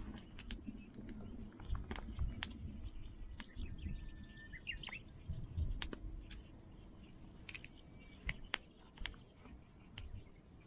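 Scattered sharp clicks and light knocks, about a dozen, irregularly spaced, with short faint bird chirps about halfway through.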